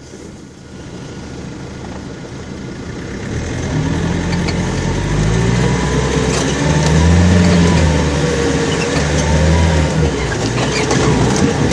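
Off-road 4x4's engine revving under load, its pitch rising and falling, growing louder over the first few seconds, with a few sharp knocks.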